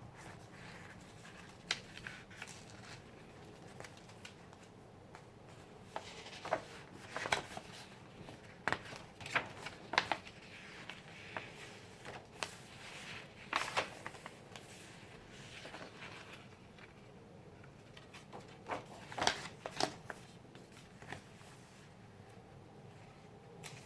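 Paper pages of a handmade junk journal being turned and handled, rustling in short, irregular strokes, some in quick clusters.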